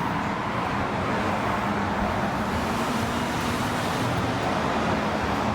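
A motor vehicle running steadily, with road or traffic noise.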